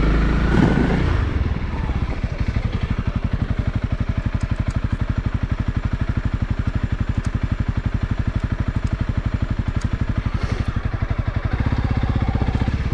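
Honda CRF300L single-cylinder four-stroke engine running at a steady, even thump near idle. It is revved briefly at the start and pulls harder again near the end.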